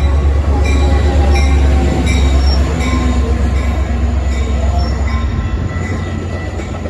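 Metra commuter train passing close by: a loud low rumble with regular wheel clicks over rail joints about every 0.7 s and some thin metallic squealing, the rumble easing off near the end.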